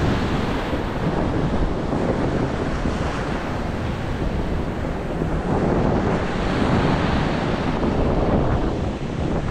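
Steady wind buffeting the microphone over rushing, splashing sea water and surf.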